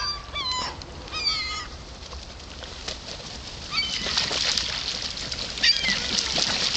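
A flock of gulls calling in short cries several times while squabbling over scattered food, with a dense noise of flapping wings and scuffling that grows louder from about four seconds in.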